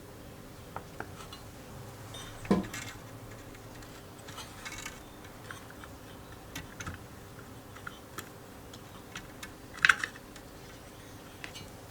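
Small metal engine parts and hand tools being handled, clinking and tapping now and then. There is a louder knock about two and a half seconds in and a sharp double clink near the ten-second mark.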